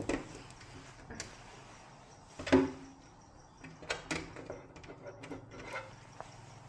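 A few scattered knocks and clatters of objects being handled, the loudest about two and a half seconds in, over a low steady hum.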